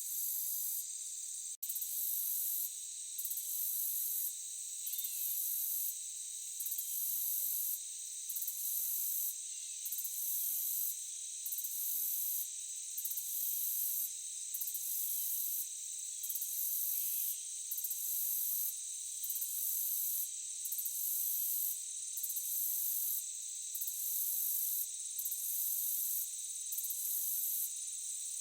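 Forest insects, crickets or similar: a steady high-pitched drone with a higher chirping pulse that repeats a little more than once a second. The sound cuts out for an instant about one and a half seconds in.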